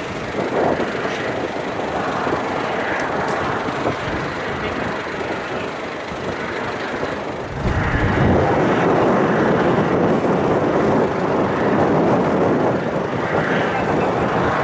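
Jet airliner engines in a loud, steady roar, growing louder with a heavy low rumble about halfway through, mixed with wind buffeting the microphone.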